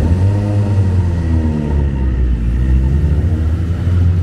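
Car engine running with a deep, steady rumble, its pitch rising and falling with the revs.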